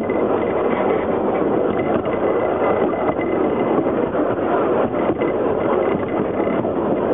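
Narrow-gauge train running steadily along the track, heard from the rear carriage as a continuous, even rumble of wheels and carriage noise.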